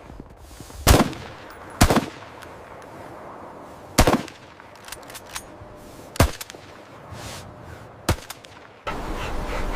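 Five sharp, loud cracks or blows at uneven intervals of one to two seconds. Near the end a steady rushing noise comes in suddenly.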